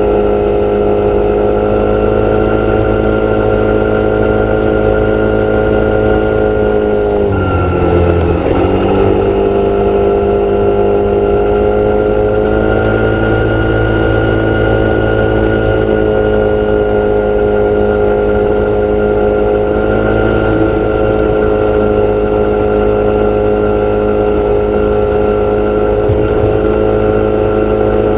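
An engine or motor running steadily, its pitch sagging briefly about seven seconds in and then recovering.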